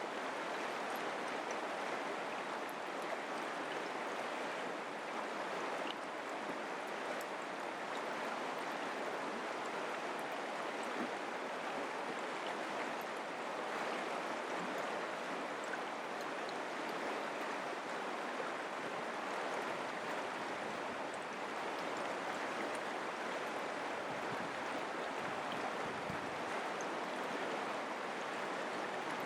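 Mountain creek flowing, a steady rushing and babbling of water.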